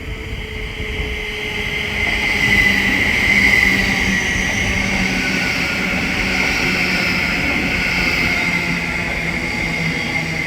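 Thameslink class 700 electric multiple unit running into the station. Its rolling noise swells over the first two seconds, then holds steady under a low electric motor hum that falls slowly in pitch as the train slows.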